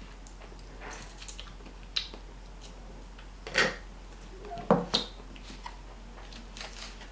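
Someone eating a burger and fries close to the microphone: scattered wet mouth clicks and chewing noises, with a few sharper clicks and taps spaced a second or so apart, over a faint steady hum.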